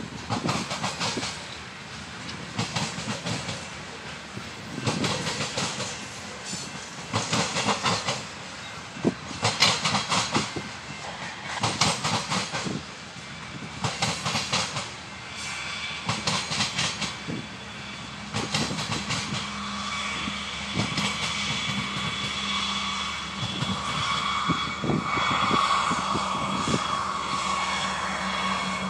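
Freight cars rolling past, their wheels clacking over the rail joints in groups of heavy knocks every second or two. About two-thirds of the way through, a Kansas City Southern diesel locomotive comes up with a steady engine drone that grows a little louder toward the end.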